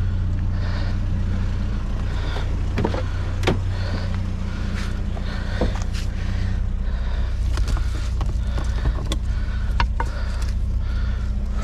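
Pickup truck engine idling steadily, with scattered clicks and knocks as a strap is put over a stove on the tailgate.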